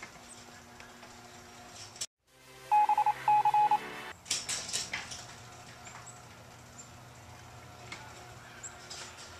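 Two loud electronic beeps about three seconds in, then a brief rattle of clicks.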